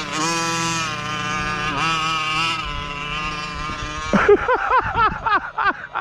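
1/5-scale gas RC car's two-stroke engine running at steady revs, then from about four seconds in blipped on the throttle in quick rises and falls, about four or five a second. It runs through the stock exhaust, which is very tinny, and the owner thinks the engine is running a bit lean.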